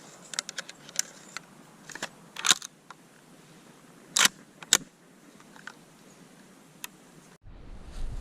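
Handling noise: a series of sharp clicks and knocks, the two loudest about a second apart near the middle. About seven seconds in the sound cuts off abruptly and a low wind-like rumble begins.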